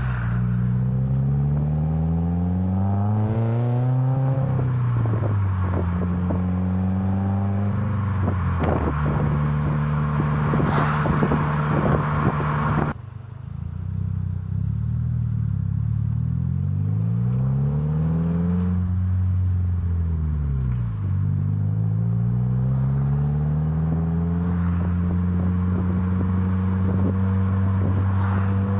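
2018 Subaru WRX's turbocharged 2.0-litre flat-four running through an ISR MBSE catback exhaust with an added resonator, pulling through the gears: the pitch climbs, drops back at each shift and climbs again. About thirteen seconds in the sound suddenly drops and thins out, then the pitch dips and rises again before settling into a steady cruise.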